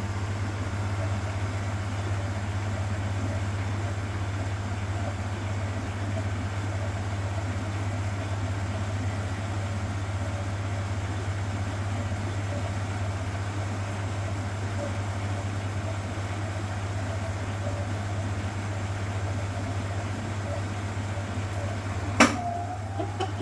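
1969 Zanker VA520 washing machine running with a steady low hum. A single sharp click sounds near the end, followed by a brief change in tone.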